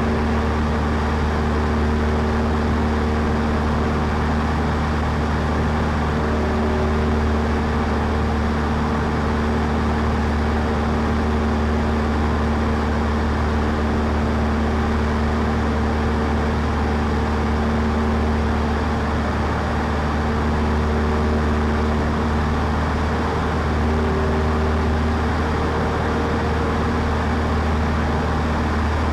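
Cessna 152's four-cylinder Lycoming engine and propeller running in steady cruise, heard from inside the cockpit as an even, unbroken drone.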